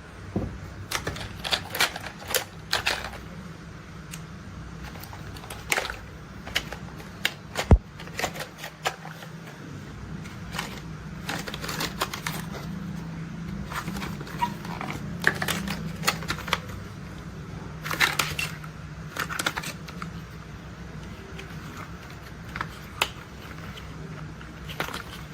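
Plastic toy construction vehicles being handled and worked by hand: irregular clicks, clacks and knocks of plastic parts, some in quick runs, over a steady low hum.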